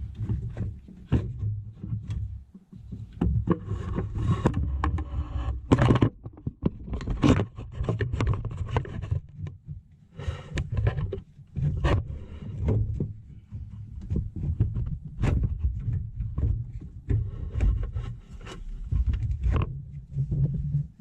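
Irregular knocks, clicks and scraping of hands and tools working on metal parts, over a dull low rumble.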